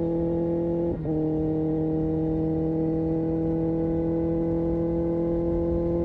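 Kawasaki Ninja ZX-6R inline-four sportbike engine and exhaust running at a steady speed, holding an even droning note. The note dips briefly about a second in, then settles back.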